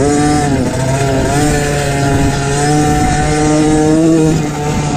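MXF 50 Pro Racing mini motocross bike engine running under load, its pitch rising and falling with the throttle, with a brief dip about a second in and a rise and drop near the end.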